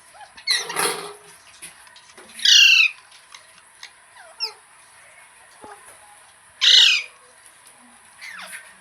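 Pet green parrot giving loud, harsh squawking calls, three strong ones spread over several seconds and a softer one near the end.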